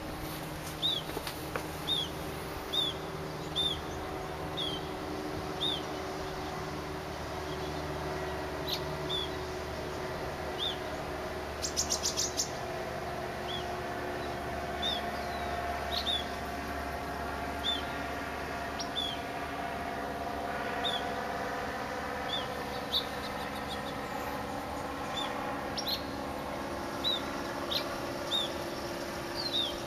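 A bird chirping over and over, short high single notes about once or twice a second, over a steady low hum. A brief rattle of clicks comes about twelve seconds in.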